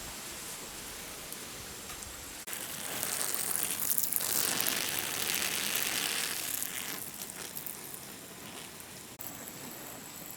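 A steady hiss that swells louder from about two and a half seconds in and fades back by about seven seconds, with a few faint ticks.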